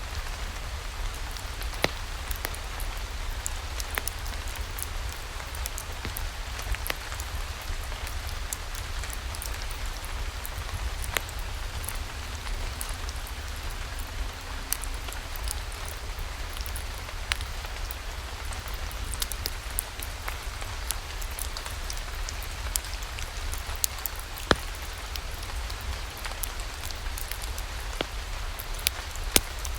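Steady rainfall with a low rumble underneath, dotted with scattered sharp clicks and pops about every second or two.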